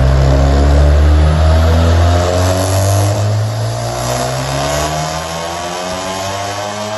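Volkswagen Jetta GLI's turbocharged EA888 Gen 3 four-cylinder, Stage 4 tuned with a Haustech HST500 turbo and a muffler-deleted 3-inch stainless exhaust, making a full-throttle pull on a chassis dynamometer, its pitch rising steadily as the revs climb.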